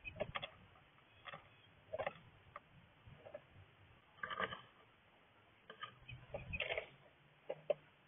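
A bluebird moving about inside a nestbox: irregular short scrapes and taps, roughly one a second, with longer scuffles about four seconds in and again after six seconds.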